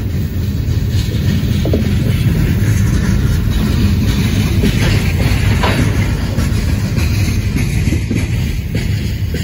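Open-top hopper cars of a CSX freight train rolling past: a steady rumble of steel wheels on the rails.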